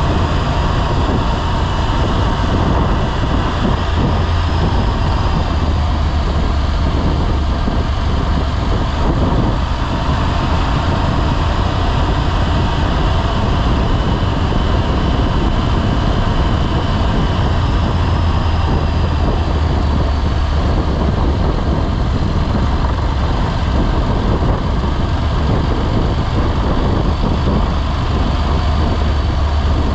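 Motorcycle running at road speed with wind rushing over the microphone, a steady loud drone with no marked changes.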